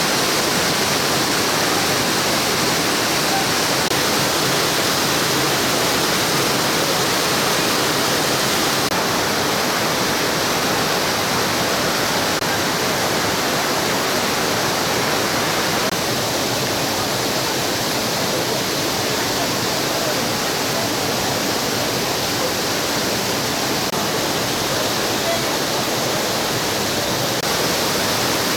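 Loud, steady rush of water from a mountain stream tumbling over rocks, with small shifts in its tone.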